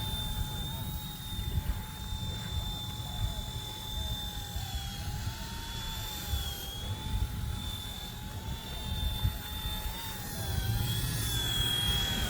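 Micro RC helicopter (RC ERA 186C Pro) in flight, its small electric motors giving a steady high whine whose pitch wavers slightly. Strong wind buffets the microphone with a low rumble.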